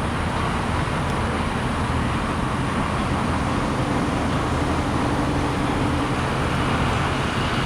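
Steady hum of road traffic and running engines, with a low engine drone under it.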